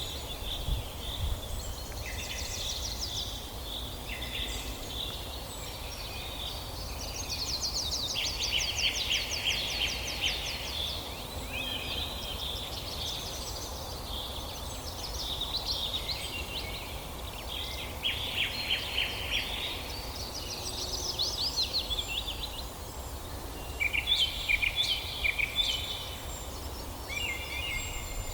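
Several songbirds singing at once, overlapping trills and quick chirping phrases, over a steady low background rumble.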